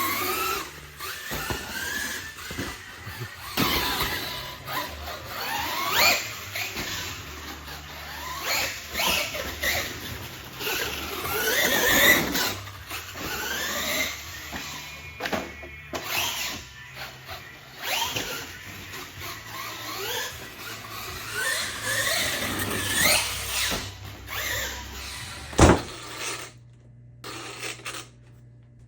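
Electric motor of a Losi LMT RC monster truck whining, its pitch rising again and again as the truck accelerates around the track. There is a sharp knock near the end.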